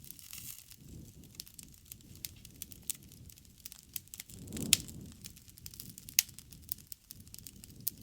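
Wood campfire crackling: irregular snaps and pops over a low rumble of flame, with a louder pop about halfway through.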